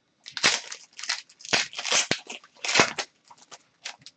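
Plastic crinkling and crackling from trading-card packaging and sleeves being handled, in several loud bursts over the first three seconds, then a few soft clicks.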